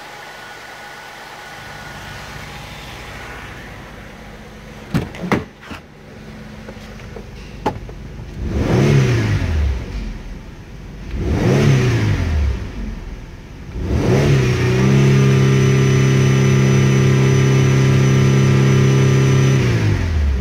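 2008 Holden Commodore's 3.6-litre V6 idling, then blipped twice and held at around 3,000 rpm for several seconds before dropping back toward idle. A couple of sharp knocks come about five seconds in.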